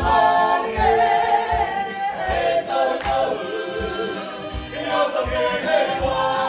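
A group of voices singing together in harmony, choir-like, with a low thump about twice a second underneath.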